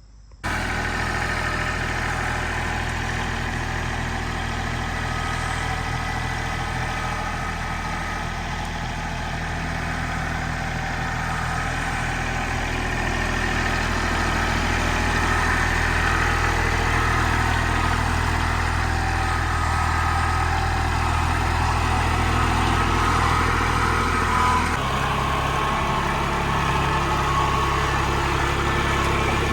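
Diesel engine of a Kubota L3901 compact tractor running steadily. About twenty-five seconds in, its note shifts abruptly.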